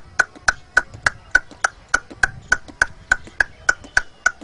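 A man imitating the hoofbeats of a horse pulling a tonga on a paved road: an even, clip-clop run of sharp clicks, about three or four a second.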